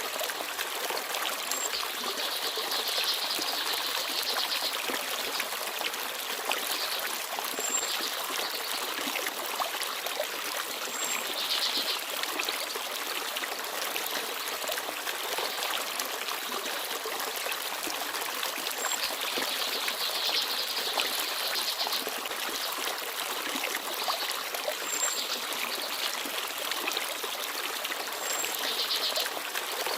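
Forest stream babbling steadily over stones, with a few brief, high chirps from small birds.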